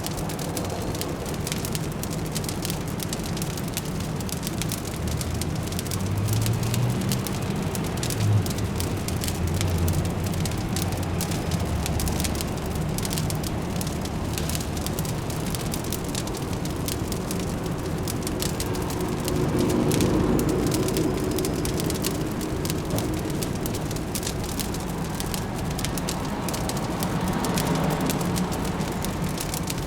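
Fireplace crackling with a dense run of small pops, over a low city hum that swells and fades a few times.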